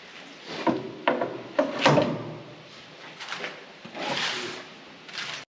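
Several metal knocks and clanks, then a longer sliding scrape about four seconds in, as heavy steel feeder-house floor plates and parts are handled inside a combine's feeder house.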